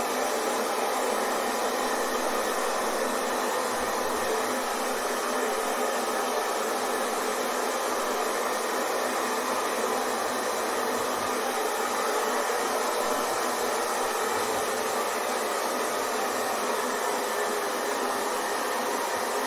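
Hair dryer blowing steadily, an even rushing hiss with a faint motor hum that never changes.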